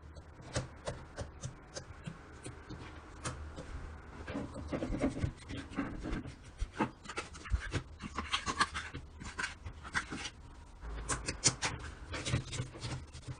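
Slime being squeezed and poked by hand: a soft wet squelching broken by many irregular sharp pops and clicks, denser in the second half.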